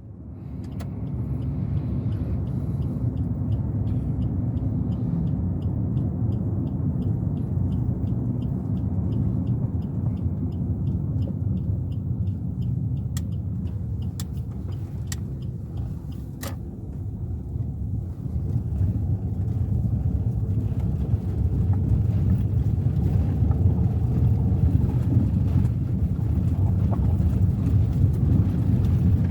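A Suzuki Ertiga 1.4 driving, with a steady low rumble of engine and road noise. A light regular ticking, about twice a second, runs through the first dozen seconds, and a few sharp clicks follow. The rumble grows louder in the last third as the car picks up speed.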